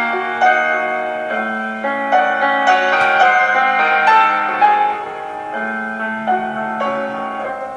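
Classical piano music: a melody over sustained bass notes.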